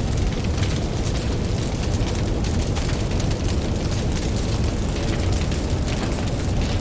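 Campfire crackling with many small sharp pops over a steady deep rush of ocean waves.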